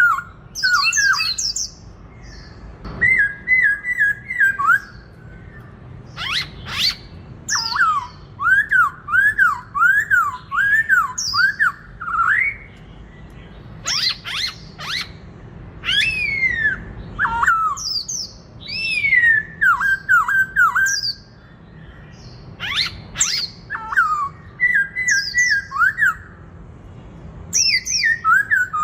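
Black-throated laughingthrush singing a loud, varied fighting song: runs of clear whistled notes that rise and fall, repeated several times in a row, mixed with sharp high slurred notes, in bursts with short pauses between.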